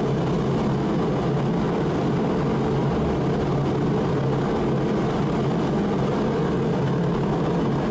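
Mr. Heater 60,000 BTU forced-air propane heater running: its fan and burner making a steady, even roar.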